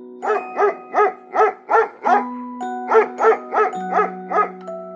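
Dog barking in quick repeated barks, about three a second, in two runs of around six with a short pause between, over soft background music with held tones.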